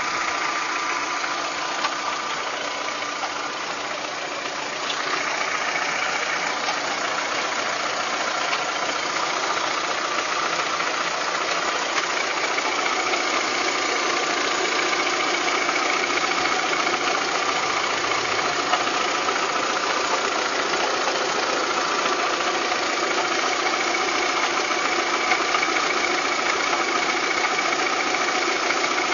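Volkswagen Golf Mk3 engine running steadily with an abnormal mechanical noise, growing a little louder about five seconds in.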